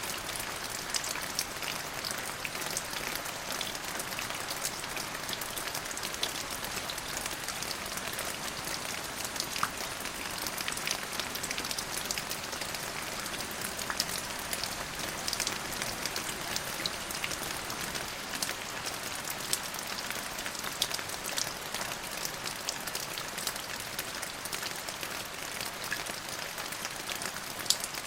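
Steady rain falling on a surface, a dense hiss with many individual drops ticking and pattering throughout.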